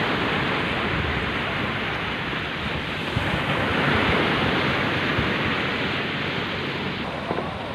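Rough sea surf washing and breaking in a steady rush, with wind buffeting the microphone; the rush swells a little midway.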